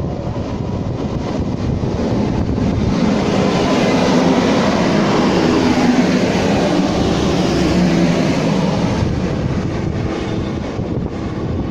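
A train passing by on the main line, its noise swelling over a few seconds, loudest about halfway through, then fading away near the end.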